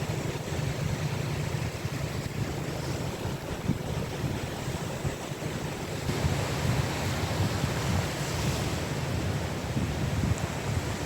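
Sea waves breaking and washing up a beach in a continuous hiss, swelling louder about halfway through, with wind rumbling on the microphone.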